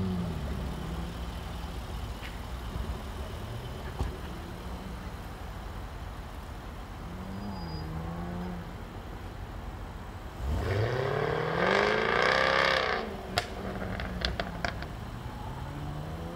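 Jaguar F-Type's engine on an autocross run, its note falling and rising with the throttle through the turns. About ten seconds in it accelerates hard, the pitch climbing steeply for a couple of seconds, the loudest part; a few sharp clicks follow near the end.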